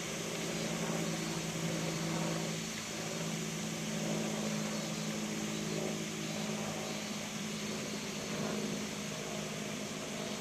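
Steady low mechanical hum of a few constant tones, over an even high hiss.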